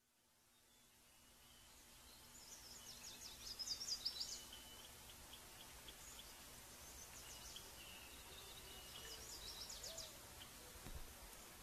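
Faint outdoor ambience of small birds chirping, in several short bursts of rapid high chirps over a low steady background hiss.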